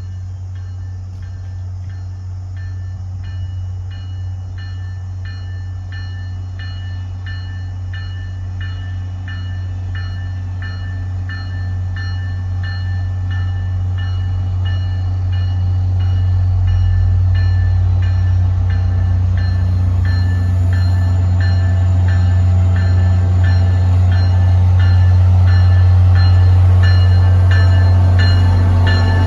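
Diesel train engine running with a steady low drone that grows louder as it approaches, while a bell rings in even strokes throughout.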